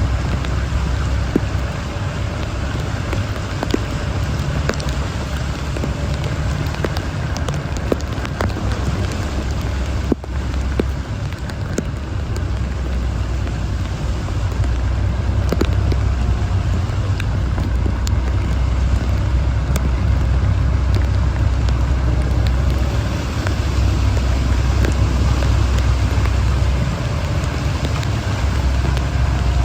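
A vehicle driving through heavy rain: a steady low road and engine rumble under the hiss of rain, with scattered sharp ticks of raindrops striking nearby.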